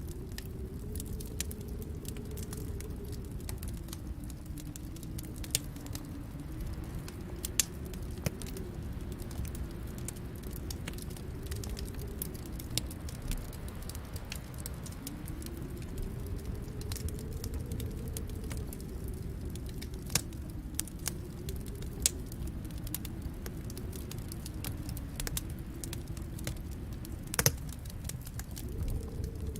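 Wood fire crackling in a fireplace: scattered sharp pops and snaps, the loudest a couple of seconds before the end, over a steady low rumble that slowly swells and ebbs.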